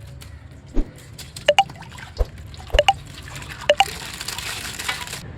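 Water dripping in separate plinking drops, then a short hissing rush of water that cuts off sharply near the end, as coloured water is let out of a plastic bag.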